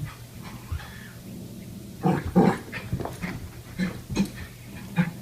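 A dog making a string of short vocal sounds, about seven in three seconds, starting about two seconds in.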